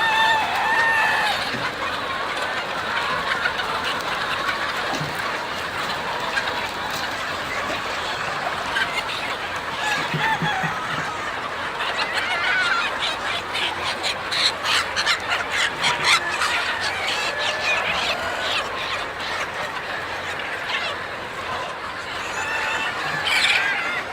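A large flock of chickens in a poultry house, clucking continuously with many overlapping calls. A run of rapid sharp clicks comes about halfway through.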